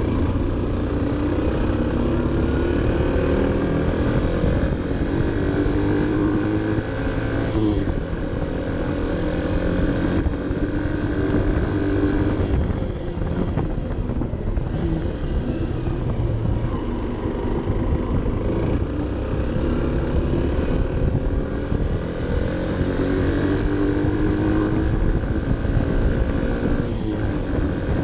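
Honda CB 125 F's small single-cylinder four-stroke engine pulling uphill, its pitch rising as it revs and dropping sharply at each gear change several times, with wind rumble on the helmet camera's microphone.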